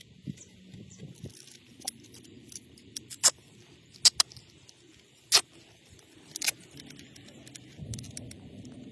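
Scattered sharp clicks and clinks of parts and tools being handled during a filter change. The loudest few come between about three and six and a half seconds in, over a faint low hum.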